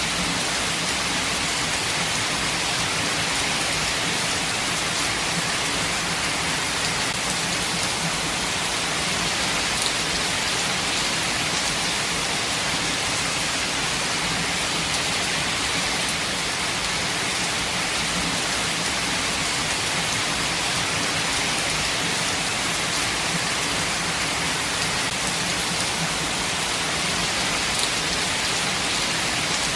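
Steady heavy rain falling, an even hiss with faint scattered drop ticks and no change in intensity.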